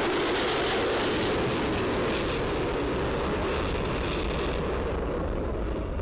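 Lockheed Martin F-35C jet passing with its single turbofan engine running loud and steady. The hissing upper part of the noise thins out over the last second or so.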